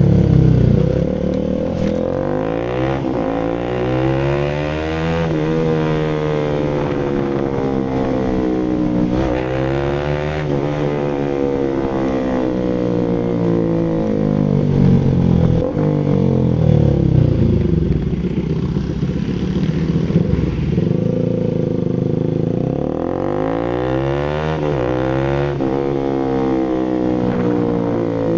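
Bajaj Rouser RS200's single-cylinder engine running through an aftermarket SC Project full exhaust, the revs rising and falling again and again as the bike is ridden, with a long drop and a fresh climb near the end.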